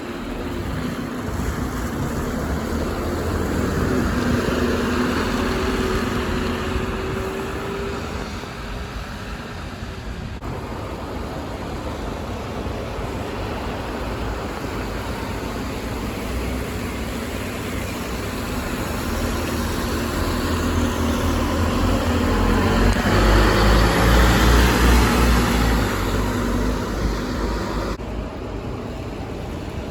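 City buses driving past in traffic, their engine sound swelling and fading as each goes by. The first carries a steady engine tone in the opening seconds; a heavier pass with deep engine rumble is loudest about three-quarters of the way through.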